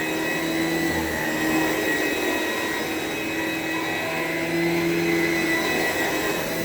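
Upright vacuum cleaner running steadily with a high whine as it is pushed over plush carpet.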